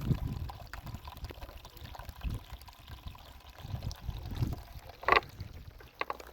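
Water pouring and trickling onto the ground while trees are watered, with low irregular rumbles and two sharp knocks about five and six seconds in.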